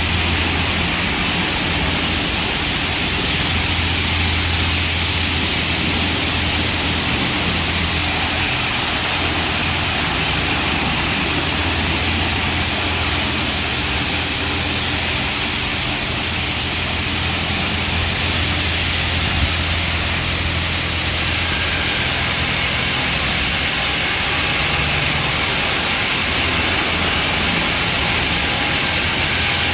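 Touch-free automatic car wash machinery running: a loud, steady rushing hiss over a low hum, which drops away suddenly at the end.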